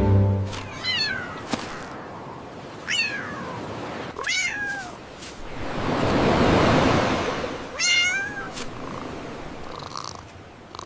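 High-pitched kitten meows, four separate calls each falling in pitch, with a rush of noise that swells and fades between the third and fourth call and a few sharp clicks.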